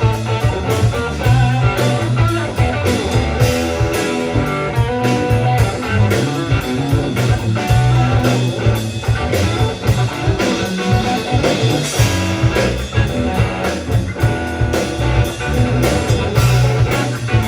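Rock-blues band music: electric guitar over bass and drum kit, playing steadily.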